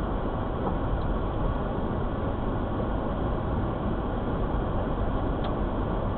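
Steady road noise inside a moving car's cabin: a low, even rumble of tyres and engine with no distinct events.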